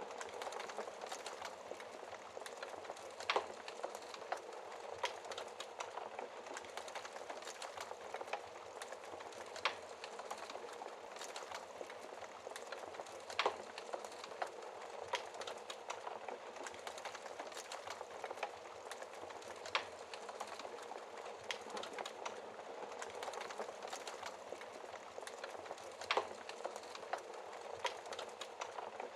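Log fire crackling steadily, with about five louder sharp pops standing out, over an even hiss of falling rain.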